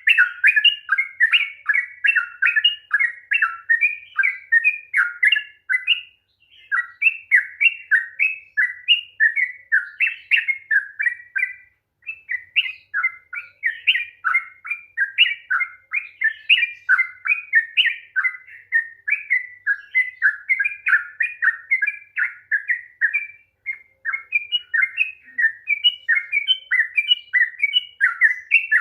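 Sooty-headed bulbul (trucukan) singing a long, rapid song: a fast string of short notes sweeping up and down, several a second, with brief breaks about six, twelve and twenty-four seconds in.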